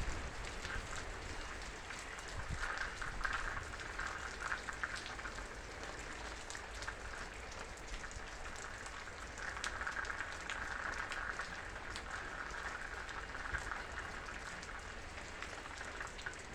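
Steady heavy rain falling, with many individual drops ticking on a surface.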